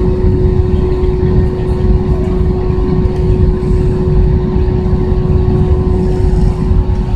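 Airbus A320 cabin noise: the jet engines and airflow make a steady, loud roar with a single held tone running through it.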